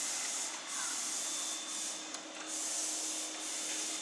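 Electric power polisher running on a boat's hull, a steady motor hum with a high whirring hiss that dips briefly several times as the pad works the gelcoat.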